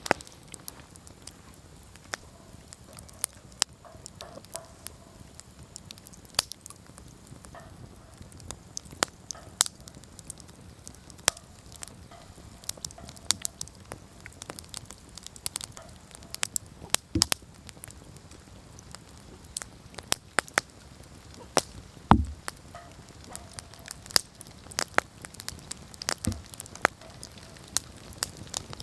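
Wood campfire burning, with irregular sharp crackles and pops over a low steady hiss; one louder pop about 22 seconds in.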